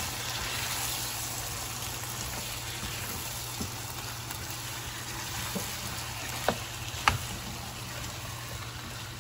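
Chicken pieces with chopped tomatoes and sweet peppers sizzling steadily in a nonstick frying pan as they are stirred with a spatula, with a few sharp clicks of the spatula against the pan, the loudest about seven seconds in.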